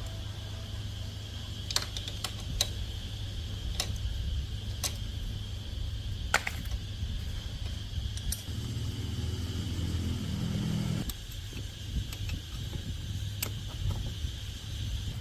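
Scattered sharp metallic clinks, like tools and small parts being handled, over a steady low hum and a steady high buzz. A lower, fuller hum swells for a couple of seconds past the middle.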